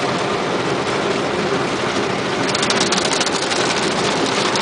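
Automatic car wash running, heard from inside the car: a steady rushing of machinery and water, with a dense rapid patter of spray striking the body from about halfway through.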